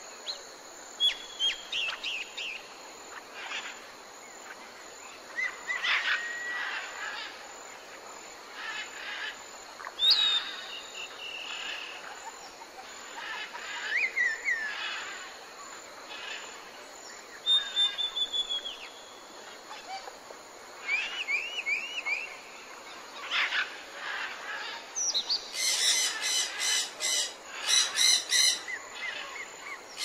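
Several wild birds calling over a steady background hiss: scattered whistles, falling whistled runs and quick repeated chirps. Near the end a harsh, rapidly pulsing squawk comes in several bouts and is the loudest call.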